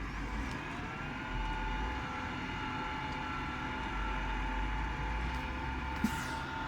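New Holland T7 tractor running steadily with a constant whine over the engine, and a single sharp knock about six seconds in.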